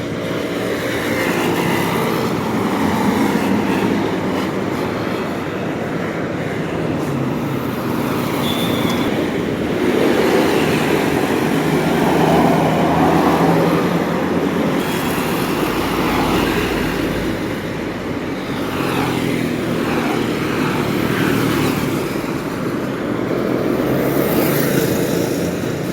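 Road traffic passing close by: the engines of large vehicles, buses among them, rise and fade several times as they go past, over steady tyre and road noise.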